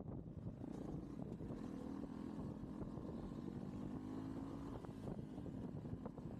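Motorcycle engine running as the bike rides along, over a low wind rumble on the camera's microphone. The engine note fades back about five seconds in.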